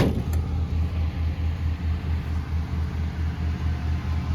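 Station wagon's engine idling with a deep, evenly pulsing exhaust rumble, from an exhaust that is due for a new muffler. A brief sharp sound comes right at the start.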